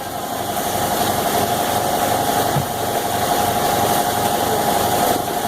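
A machine motor running steadily in the shop, with a steady whine over a fast, even low pulsing.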